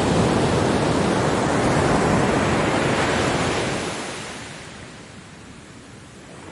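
Ocean waves breaking on a beach: a loud rush of surf that dies down about four seconds in to a quieter hiss, with the next wave starting to swell near the end.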